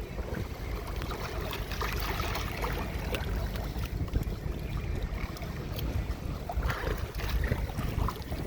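Wind noise on the microphone over moving water: a steady low rumble with scattered small clicks and splashes.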